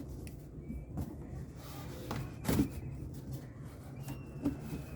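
Cardboard carton being folded shut by hand: a few separate creases and knocks, the loudest about two and a half seconds in, over a low steady hum.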